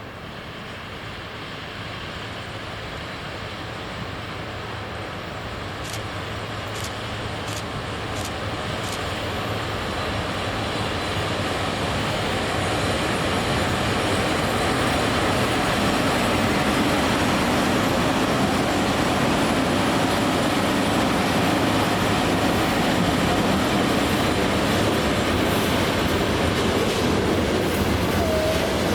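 Freight train behind a VL11.8 electric locomotive rolling through a station. It grows steadily louder over about fifteen seconds as it draws near, then stays at a steady loud rolling and rumbling of wheels on the rails.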